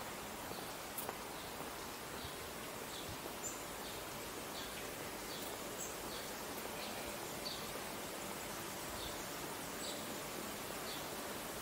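A bird chirping in short, high notes repeated every half second to a second, over a steady hiss of outdoor background noise.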